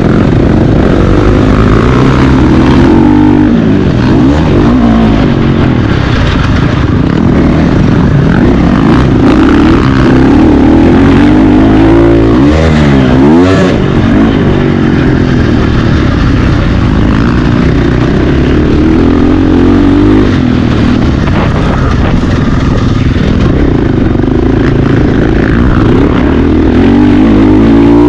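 Motocross bike engine racing, very loud throughout, its revs rising and falling constantly through throttle changes and gear shifts, with a sharp drop and climb about halfway through.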